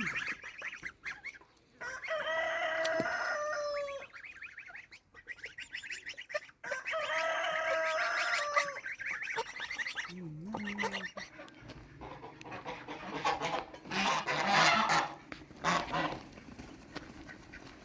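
A rooster crowing twice, each crow about two seconds long with a slightly falling pitch, followed later by a stretch of rougher, noisier fowl calls.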